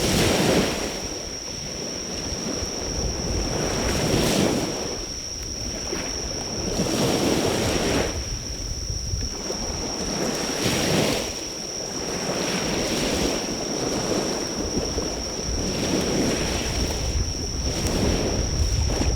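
Sea waves washing onto the shore, swelling and falling away every few seconds, with insects calling in one steady high-pitched tone throughout. Low wind rumble on the microphone.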